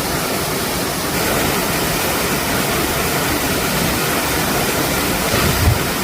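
Waterfall, a loud steady rush of falling water, with a brief low thump near the end.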